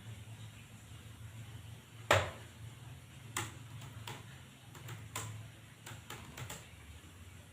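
Computer keyboard keys pressed in an irregular, sparse run of about a dozen clicks, the loudest about two seconds in, over a steady low hum.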